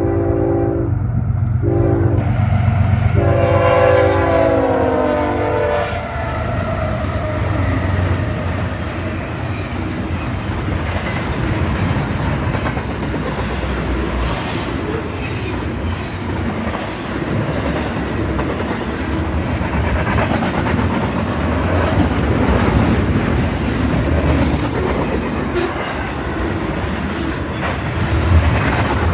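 Diesel freight locomotive passing close by, sounding its multi-chime air horn in blasts; the last long blast drops in pitch as the locomotive goes past. Then the train's cars roll by with a steady rumble and the clickety-clack of wheels over rail joints.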